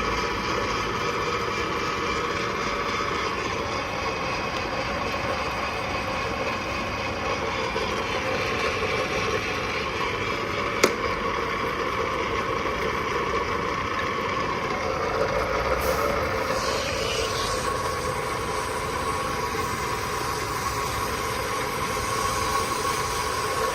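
REX 90A3 pipe threading machine running steadily under its electric motor and gear drive, with a single sharp click about eleven seconds in.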